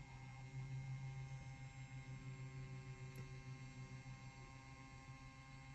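Low, steady electric hum from the small motor of a spinning display turntable, with faint steady whine tones above it.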